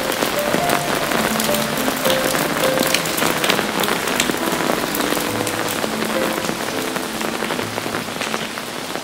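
Steady rain, with many separate drops pattering, under a slow, soft melody of held notes. The rain grows gradually quieter near the end.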